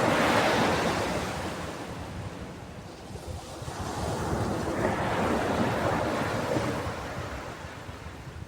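Sea waves washing onto a shore, two slow surges that swell and fade away, one at the start and another through the middle.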